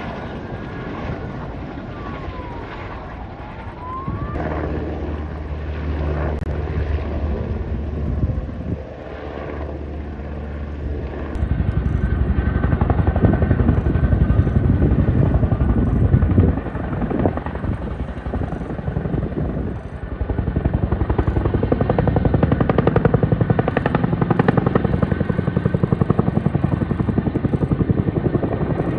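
Firefighting helicopter: a steady engine hum at first, then a louder, rapid rotor chop from a little under halfway in.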